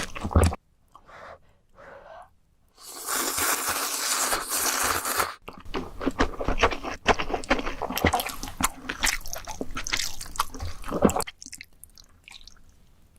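Close-miked eating of ramen: a long continuous slurp of noodles about three seconds in, then several seconds of wet, crackly chewing with crunchy bites. It drops to faint mouth clicks near the end.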